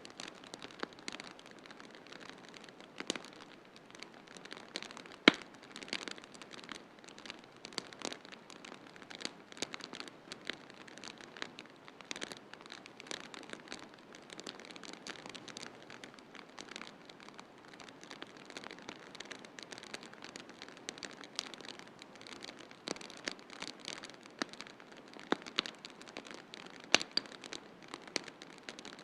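Wood fire crackling in a fireplace, with frequent sharp pops over a steady hiss; the loudest pop comes about five seconds in.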